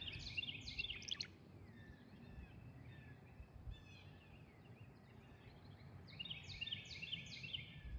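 Tree swallows giving quick runs of high chirps, one burst at the start and another from about six seconds in, as a person stands close to their nest. A faint low rumble lies underneath.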